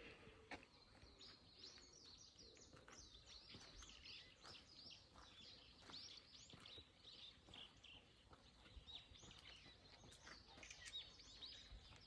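Faint birdsong: many small birds chirping in short, quick, overlapping calls over a soft outdoor hiss.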